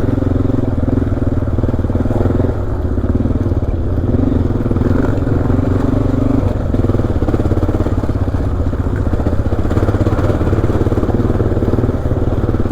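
Honda XR dual-sport motorcycle's single-cylinder engine running at low, steady trail speed, with the throttle easing briefly about two and a half seconds in and again about six and a half seconds in.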